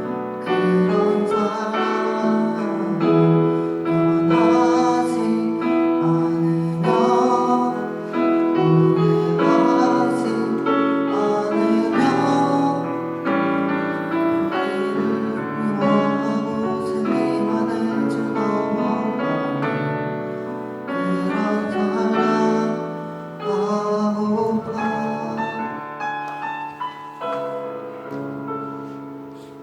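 A Korean worship song sung with piano accompaniment.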